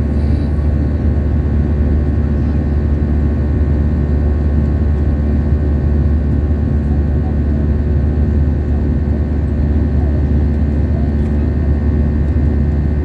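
Airbus A320 cabin noise: a steady, loud low drone of the engines and airflow, heard from inside the cabin.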